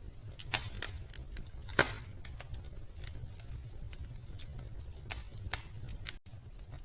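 Wood fire in a fireplace crackling: irregular sharp pops and snaps over a low steady rumble of the burning logs, the loudest snap about two seconds in.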